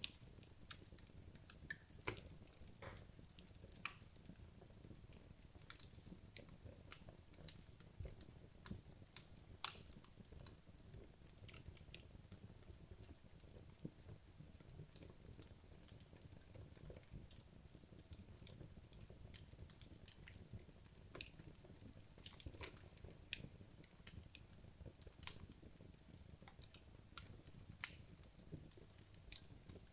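Wood logs burning in a fireplace: a quiet low flame rumble with frequent irregular crackles and small pops.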